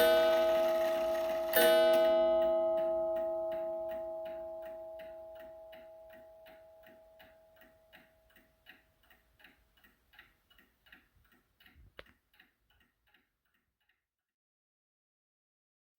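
Seth Thomas beehive mantel clock striking twice, a second and a half apart, each ringing stroke dying away slowly, while its movement goes on ticking steadily. The ticking fades out about two seconds before the end.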